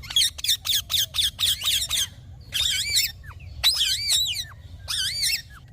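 Green Indian ringneck parakeet calling: a quick run of about ten short, shrill calls, then three longer calls whose pitch wavers up and down, with short gaps between.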